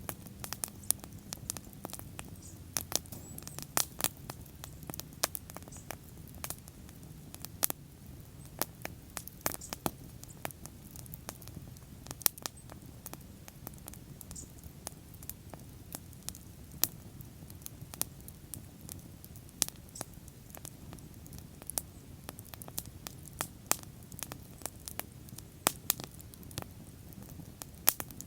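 Wood bonfire crackling: irregular sharp pops and snaps, a few of them louder, over the low steady rumble of the flames.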